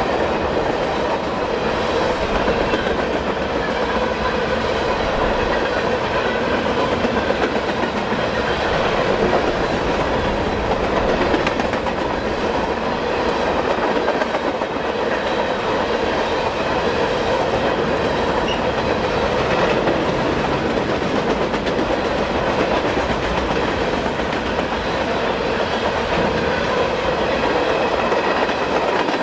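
CSX freight train rolling past at trackside, a steady unbroken run of railcars with wheel and rail noise.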